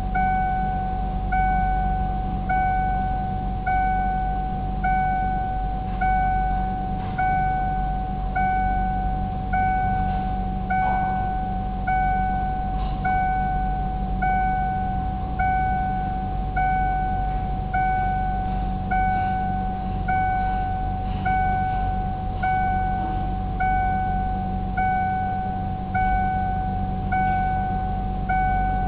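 Ford Mustang's dashboard warning chime sounding on and on, one tone repeating about every 1.2 seconds during a key-on-engine-off self-test, over a steady low hum.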